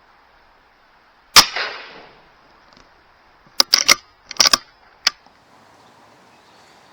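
A single shot from a .22 BSA Super10 air rifle, a sharp crack about a second and a half in with a short ringing tail. A few seconds later come a quick run of short sharp clicks and knocks, in two clusters and then one more.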